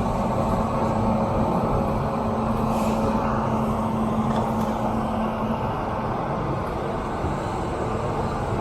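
A WAP7 electric locomotive standing at the platform, running with a steady loud drone and hum from its onboard machinery. One low hum note fades out about five and a half seconds in.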